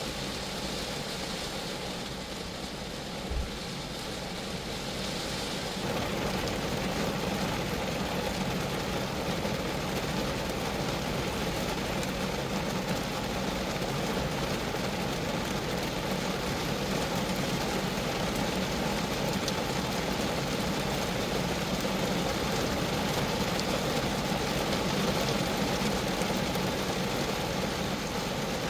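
Rain falling steadily on a Geo Metro's body, a dense even patter. A short low thump comes about three seconds in, and the rain grows a little louder about six seconds in.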